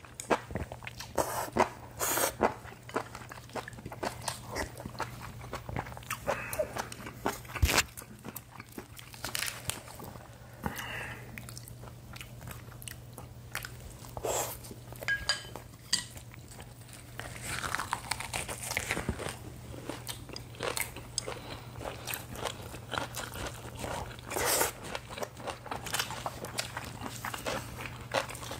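Close-miked eating: crunching and chewing of lettuce-wrapped bites of spicy stir-fried pork and rice, with many short clicks and smacks throughout. A steady low hum runs underneath.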